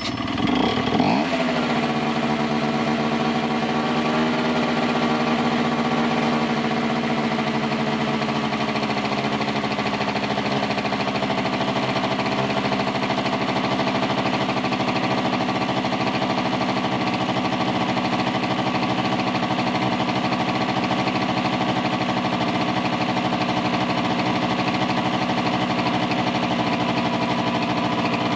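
Honda Dio 18 scooter's small two-stroke engine running just after a start following an engine rebuild. It revs briefly about a second in, then settles into a steady idle.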